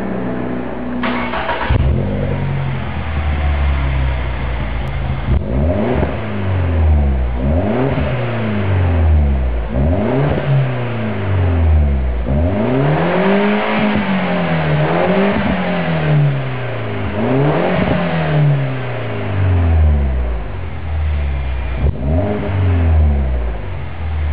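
An R56 MINI's four-cylinder engine is blipped over and over through an aftermarket Delta stainless exhaust with an Inconel tail muffler. The revs rise and drop back in quick arches about every one and a half to two seconds, after a brief idle at the start.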